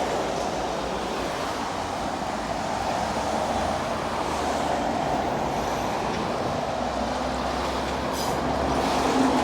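Steady road traffic noise from passing vehicles: a dense hiss of tyres on the road over a low engine rumble.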